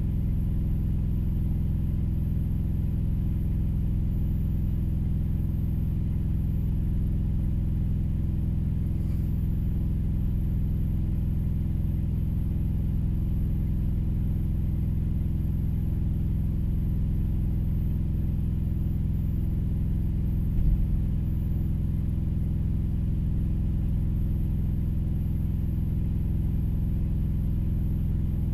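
Idling engine droning steadily, heard from inside a vehicle cab, with one short knock about two-thirds of the way through.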